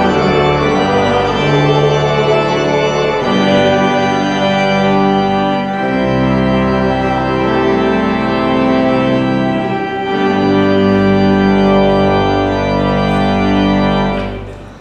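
Church organ playing slow sustained chords over low bass pedal notes, the last chord dying away near the end.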